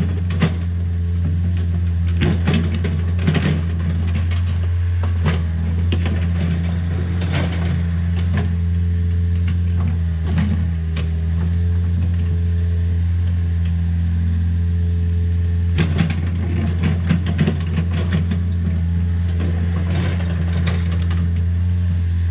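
Takeuchi TB153FR compact excavator's diesel engine running steadily, with irregular knocks and clatters from the machine working, thickest near the start, in the middle and toward the end.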